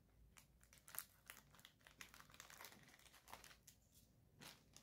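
Faint crinkling and tearing of a Happy Meal toy's packaging bag being opened by hand, a scatter of short crackles.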